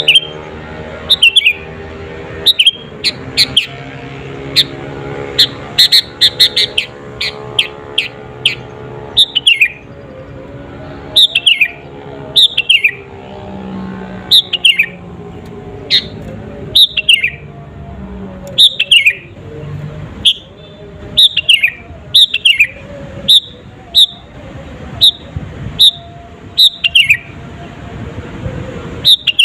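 Sooty-headed bulbul (kutilang) singing: loud, short notes that each slide down in pitch, given in quick clusters every second or two.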